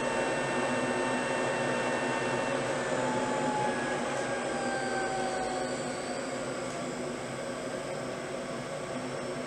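Steady mechanical whir, like a fan or small motor running, with faint whining tones over it that slide slowly down in pitch about four to six seconds in.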